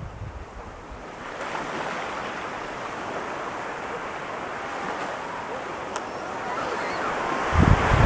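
Ocean surf washing up the beach: an even rush of breaking water that swells about a second in and holds steady. Wind buffets the microphone near the end.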